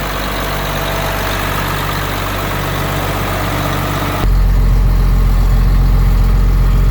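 Tractor engine running steadily; about four seconds in the sound abruptly becomes louder and deeper.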